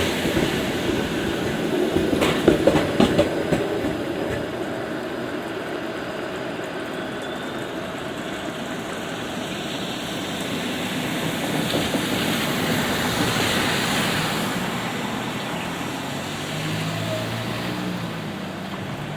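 A rail vehicle running on tracks in the rain, with a few sharp clacks about two seconds in. The sound then settles into a steady wet rumble that swells again around the middle and fades toward the end.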